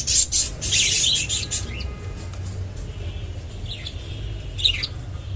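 Pet budgerigars chirping: a dense flurry of high chirps in the first second and a half, then a few short chirps near the end.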